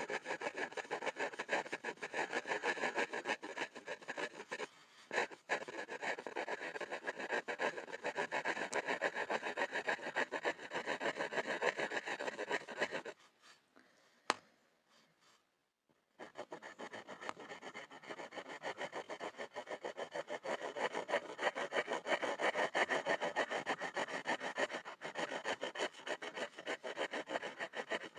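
Graphite pencil scribbling on a board: a dense, continuous scratching of quick strokes. It stops for about three seconds around the middle, where there is a single light tap, and then resumes.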